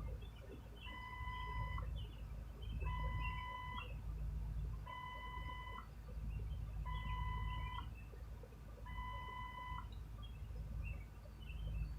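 Electronic warning beeper sounding five times at one steady pitch, each beep about a second long and two seconds apart. A steady low rumble runs under it.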